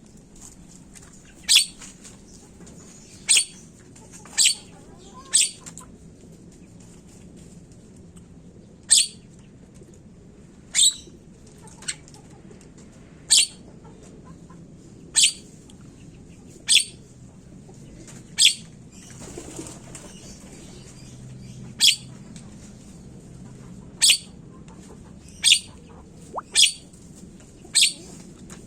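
Javan myna (jalak kebo) giving short, sharp, high-pitched calls, one every one to two seconds, with a brief pause a little past two-thirds through; a low steady hum underneath.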